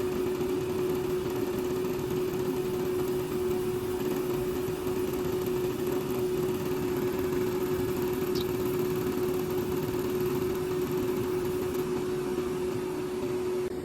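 Steady electric hum of a small motor or fan running at constant speed, one steady tone over an even hiss.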